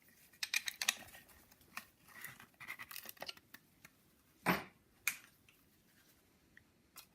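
Adjustable piston ring compressor being tightened and handled: a run of light metallic clicks and scrapes, then one louder clunk about four and a half seconds in and a few scattered clicks.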